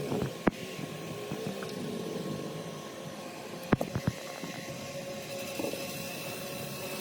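Sharp metallic clicks: one about half a second in, then a quick run of about four near the middle. Behind them is a steady low hum.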